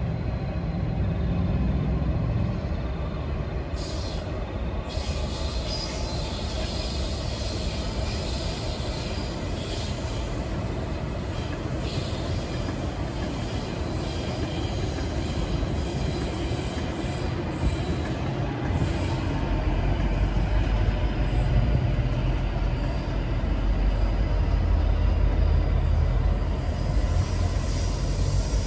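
NR class and G class diesel locomotives running at the head of a long passenger train as it starts to pull away, a low engine rumble that grows louder about two-thirds of the way in. Electric suburban trains pass on nearer tracks.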